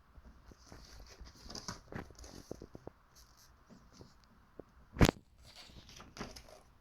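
Paper pages of a book rustling as they are turned, with small clicks and scrapes, and one sharp tap about five seconds in.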